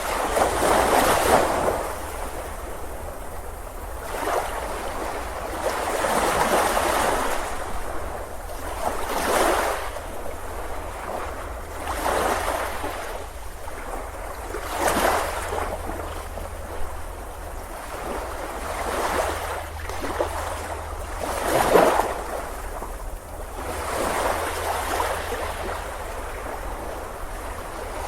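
Ocean waves breaking and washing up a beach, surging and ebbing every few seconds, with a steady low rumble underneath.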